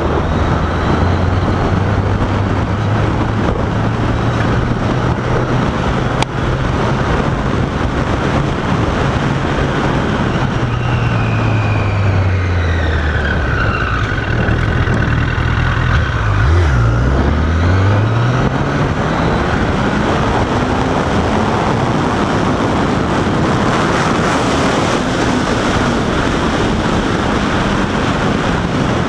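Motorcycle engine running under way with steady wind noise. About halfway through the engine note drops, as when slowing, then climbs again as the bike speeds up.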